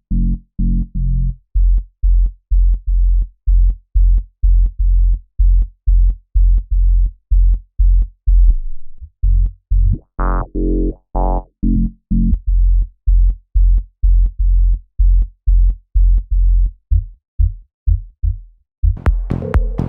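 Electronic music from a work-in-progress track: a looped synth bass of short, evenly repeated notes at about two a second, with a brief higher synth phrase about halfway through. Near the end the full beat with hi-hats comes in.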